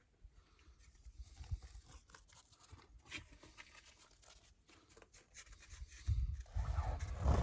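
Irregular crunching footsteps, faint at first. About six seconds in they become louder, with rustling and a low rumble.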